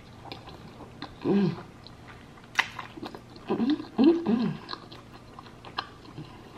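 A person chewing crispy fried food close to the microphone, with small crunches and mouth clicks, and short hums of enjoyment about a second in and again around four seconds.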